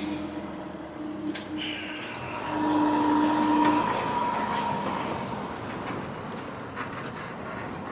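Passenger train running at the station, a steady whine over rumble that swells about two and a half seconds in and then fades.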